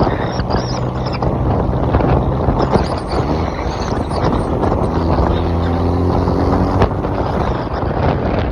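2014 Hyundai Genesis Coupe 2.0T's turbocharged four-cylinder running through a Tomei titanium single exhaust, with wind rumbling on the microphone. About halfway in, a steady engine drone comes through more clearly.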